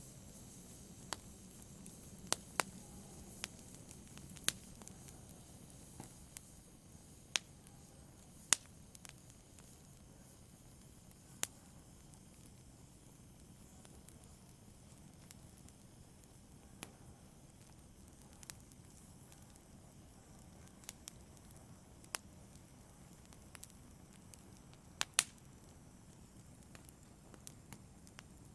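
Fire burning in a fireplace: irregular sharp crackles and pops, roughly one every second or two, over a faint steady hiss.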